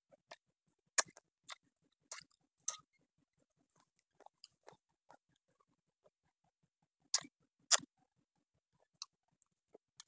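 Close mouth sounds of someone eating squirrel meat: chewing with sharp wet clicks and smacks at irregular moments. The loudest come about a second in and twice about seven seconds in.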